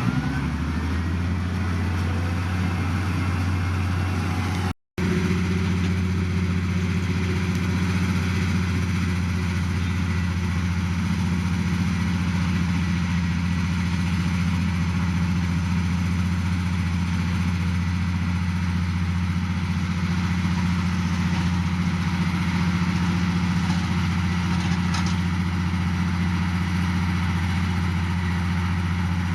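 Heavy diesel engine of earthmoving equipment running steadily with a deep, even hum. The sound breaks off in a very short silent gap about five seconds in.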